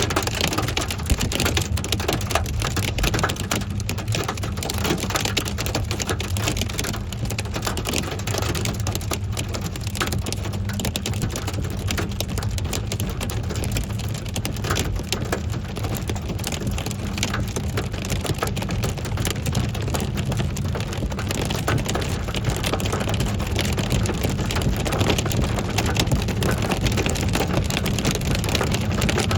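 Hail and rain pelting hard surfaces: a dense, steady clatter of many small impacts.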